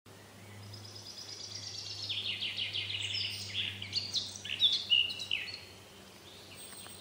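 Songbird singing: fast, high trills that fall in pitch, then short varied whistled phrases, loudest about four to five seconds in, over a faint steady low hum.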